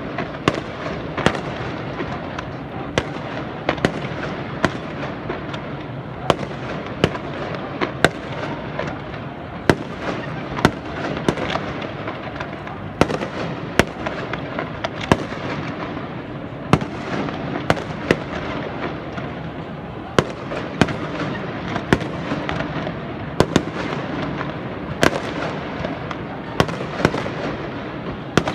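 Many fireworks going off around a city: sharp bangs of aerial shells every second or so, irregularly spaced, over a constant dense din of more distant fireworks and firecrackers.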